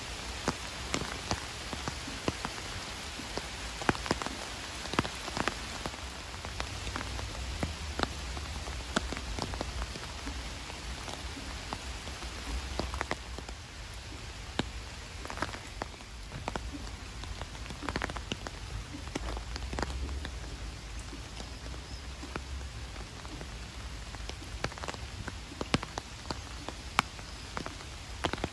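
Steady rain falling on a lake and the wet foliage around it: an even hiss of rainfall dotted with frequent sharp taps of single drops landing close by.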